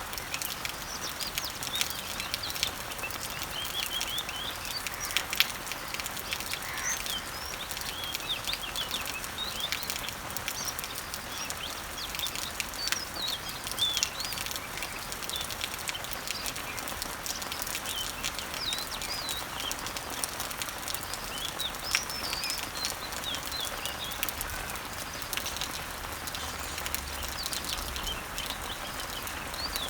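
Steady rain pattering on leaves, with the sharper ticks of single drops, while small birds chirp and sing in short repeated phrases, busiest in the first half.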